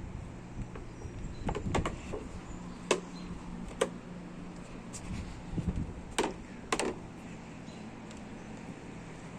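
Scattered sharp clicks and knocks, several in the first seven seconds, over a steady low hum.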